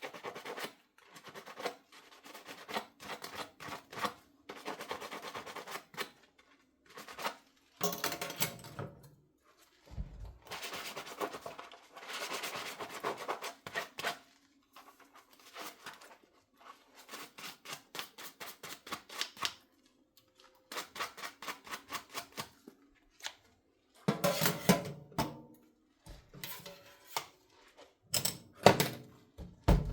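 Dishes being washed by hand at a sink: stop-start clinking and knocking of dishes and utensils with stretches of sponge scrubbing, and louder clatter near the end.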